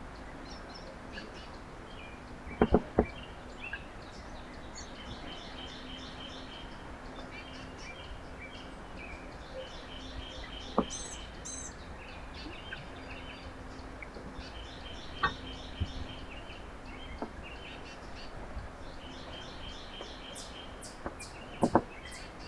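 Small songbirds at a feeder chirping and twittering in repeated quick series of high notes, over a faint steady hum. A few sharp taps or knocks stand out louder than the birds, about four times.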